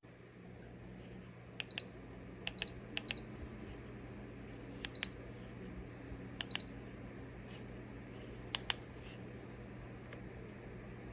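Electric space heater's fan starting up and running with a steady low hum. Over it, about six sharp clicks of its control buttons, each with a brief high beep.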